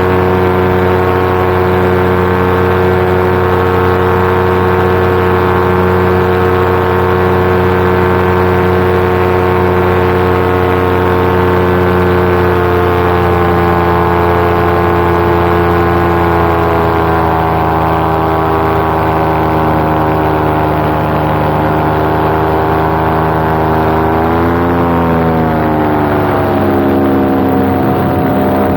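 Paramotor engine and propeller running steadily under power. Its pitch eases gradually lower from about halfway through, then dips and swings back up briefly near the end before settling at a lower throttle.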